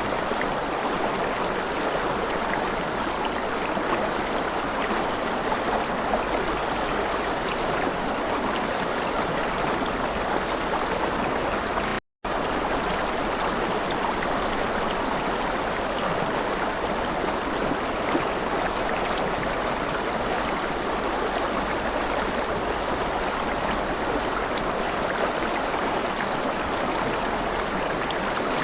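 River water flowing and splashing in a steady rush, with a momentary cut to silence about twelve seconds in.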